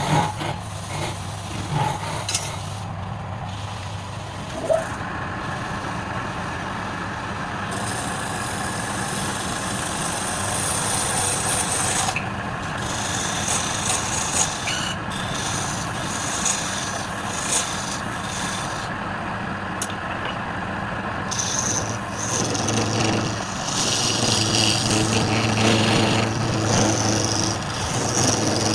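Wood lathe motor running with a steady hum while a turning tool cuts into the spinning wood. From about four seconds in, a rasping cutting noise comes and goes.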